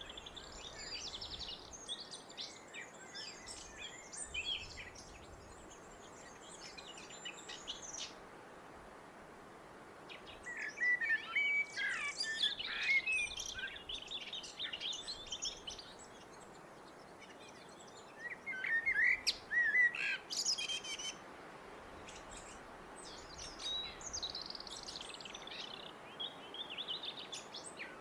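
Blackbird singing in separate phrases with short pauses between them. There is a steady background hiss. Higher twittering comes early on, and louder, lower phrases follow from about ten seconds in.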